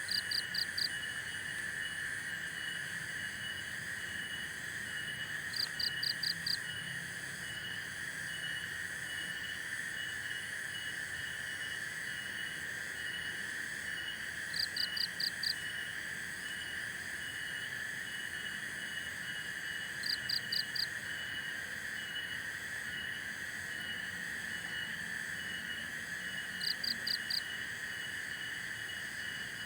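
Night chorus of insects and frogs: a steady high buzzing drone with an evenly repeating chirp above it. Every five or six seconds there is a quick run of four or five sharper, higher chirps.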